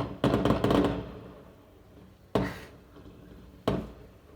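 Fireworks going off: a sharp bang and a quick string of crackles lasting well under a second, then two more single bangs over a second apart, each trailing off.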